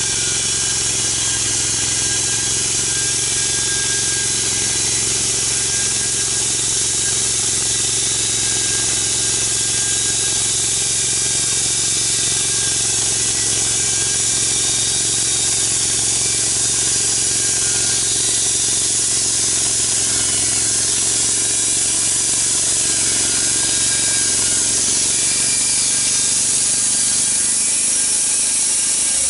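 Log-milling saw running steadily through a big log: a steady engine drone under a strong, even hiss of cutting.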